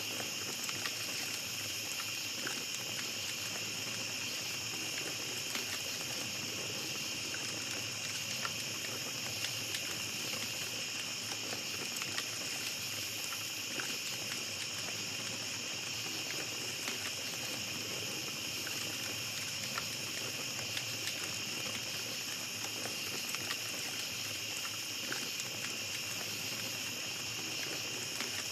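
Small campfire crackling, with scattered small pops and ticks throughout, over a steady high-pitched drone of night forest ambience.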